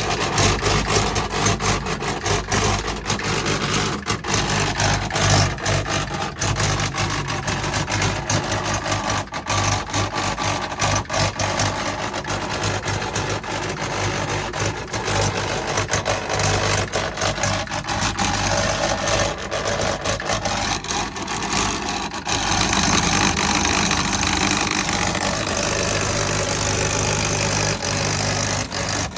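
Electric heating control unit buzzing with a steady mains hum and dense irregular crackling clicks, which settle into a steadier buzz about three-quarters of the way through. The noise is the fault in the control unit.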